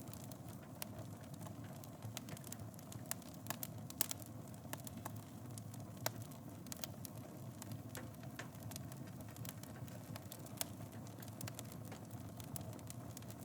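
Wood fire burning in a fireplace: a steady low rush of flames with irregular sharp crackles and pops, a few louder snaps about four and six seconds in.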